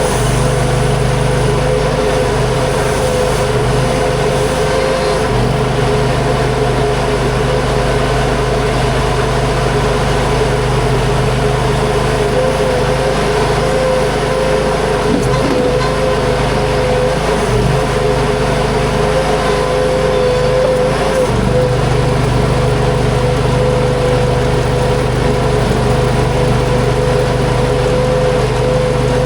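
Huayee LHY480 mini skid steer running steadily under work, its engine carrying a steady whine. The engine note changes about five seconds in and changes back about twenty-one seconds in.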